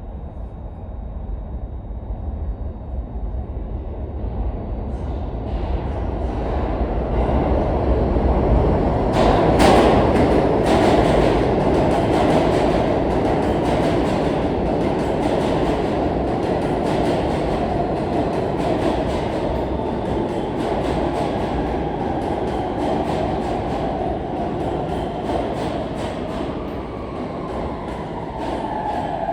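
R160 subway train running along the track, its wheels clicking steadily over the rail joints. The rumble builds to a peak about ten seconds in, then slowly eases off.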